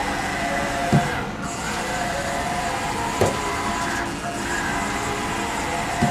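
Brushless servo drive of a 1996 Haas VF0 machining centre moving the Y axis under jog: a steady whine with a few faint gliding tones, broken by three short knocks, about a second in, about three seconds in and near the end.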